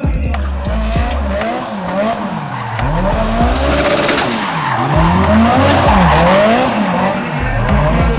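Car engine revving up and down about once a second, with tyres squealing as the car slides.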